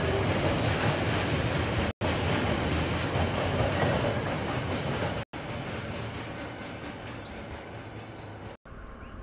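A KiwiRail train passing on the line, a steady noise of wheels on rail that eases off after about five seconds as it moves away. The sound is cut by three brief silent dropouts in the recording.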